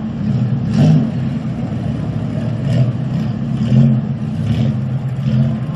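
Several demolition derby cars' engines running and revving together, swelling and easing in uneven surges.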